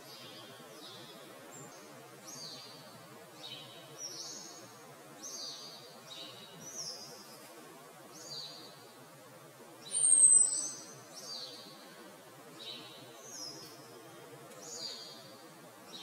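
Birds give short high calls in the background, repeating about once a second. About ten seconds in, a male Eurasian blackbird gives one loud, thin, high whistle that falls slightly in pitch.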